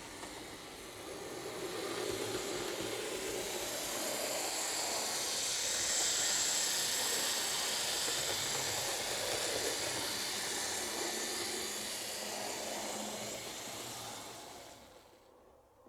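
HO scale Lima model of an NS class 1300 electric locomotive running along the track, its motor and wheels giving a steady whirring rush. The sound grows over the first two seconds, is loudest midway as the locomotive passes close, and fades off shortly before the end.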